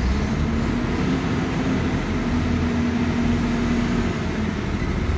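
Heavy diesel engine running steadily with a rough low rumble. Its pitch rises slightly about a second in and drops away about four seconds in.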